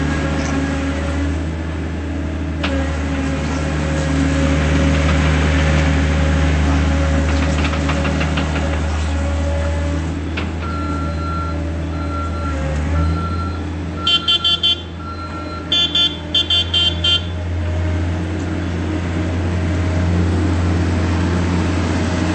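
John Deere 332 skid steer loader's diesel engine running steadily. About halfway through, a high electronic beep sounds about once a second, then several louder pulsing toots follow a few seconds later, from its alarm or horn.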